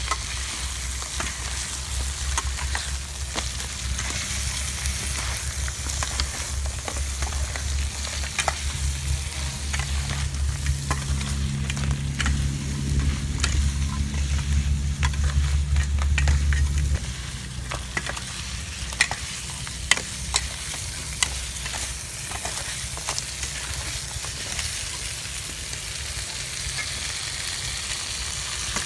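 Crab pieces sizzling and frying in curry paste in a metal pan, with a metal ladle scraping and clicking against the pan as it is stirred. A low rumble underneath cuts off a little past halfway through.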